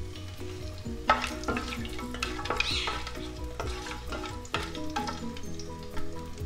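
Whole spices (bay leaves, star anise, cardamom and cinnamon) sizzling in hot oil in a non-stick pot, being tempered at the start of a biryani. A wooden spatula knocks against the pan several times as they are stirred.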